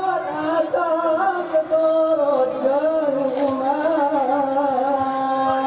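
Men's voices singing a Saman dance song together on one high melody, with long held notes that waver and bend in pitch. A single short clap-like knock about three and a half seconds in.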